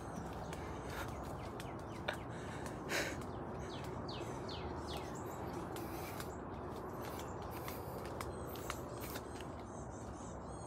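Woodland birds chirping, with a quick run of falling chirps about four to five seconds in, over a steady low background noise.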